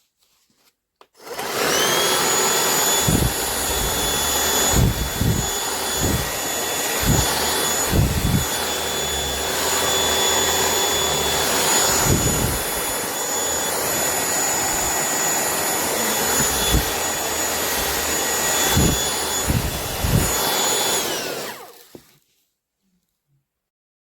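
Cordless handheld vacuum cleaner (Gtech Multi MK2) switched on about a second in, its motor running steadily with a high whine, with irregular low thumps. Near the end the whine falls away and it stops.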